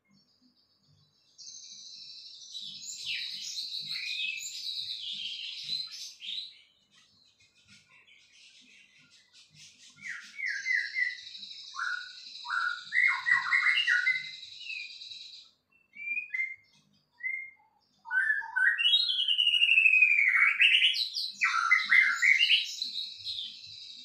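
A songbird singing in three long bouts of rapid, varied chirps and whistled sweeping notes, with pauses of a few seconds between bouts; the last bout, starting about three-quarters of the way in, is the loudest.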